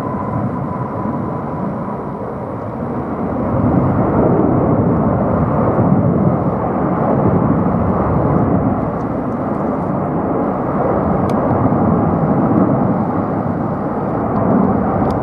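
Boeing 777-300ER's twin GE90-115B turbofans at takeoff power: a loud, steady jet roar that swells and eases, with a faint whine that slowly drops in pitch.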